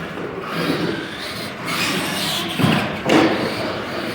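RC monster trucks racing over a dirt track, their wheels and motors making a steady noisy clatter, with two hard thuds about two and a half and three seconds in, as of trucks landing off a jump.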